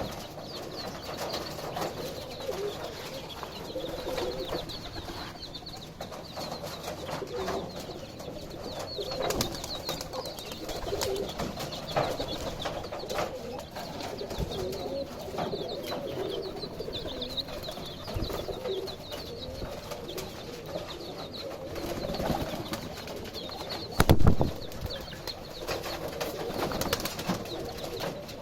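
Baby chicks cheeping in quick, high peeps while a mother hen clucks low, with scattered sharp pecking taps from the flock eating cabbage. One loud thump comes about four seconds before the end.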